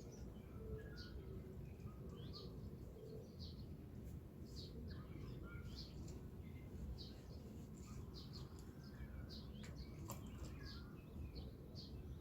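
Small birds chirping in short, high, repeated calls over a steady low background rumble.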